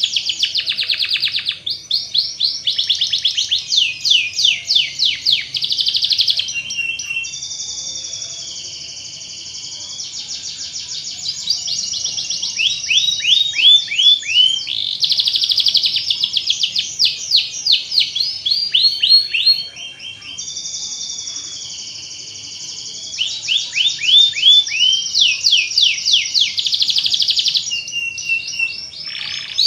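Domestic canary singing a long, continuous song. Phrases of fast repeated sweeping notes switch every second or two with longer, even rolling trills.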